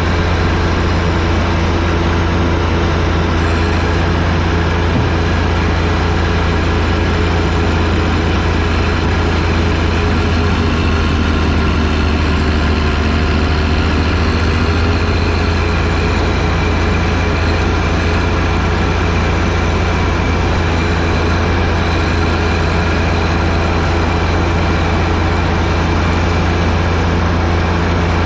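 Engine of a John Deere 1025R compact tractor, a three-cylinder diesel, running steadily while driving the snowblower. The engine note sags slightly for a few seconds around the middle, then steadies again.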